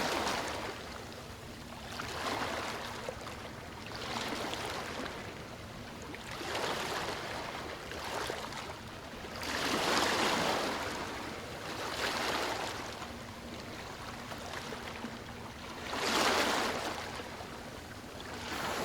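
Small waves washing in on a beach, one wash about every two seconds, with two larger ones about halfway through and near the end.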